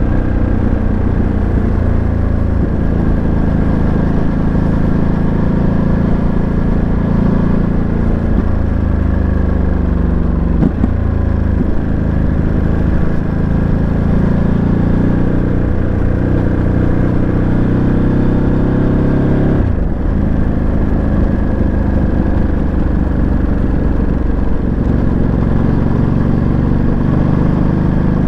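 Ducati Monster 937's Testastretta 11° L-twin engine running under way, heard from the bike, its pitch dropping and climbing as the revs change. Short sharp breaks in the engine note come twice, about eleven and twenty seconds in.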